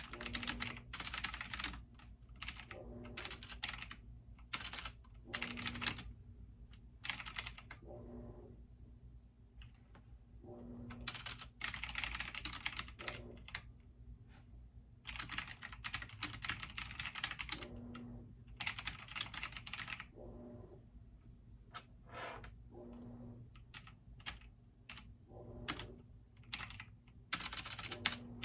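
Typing on a computer keyboard, in runs of rapid keystrokes broken by short pauses, over a steady low hum.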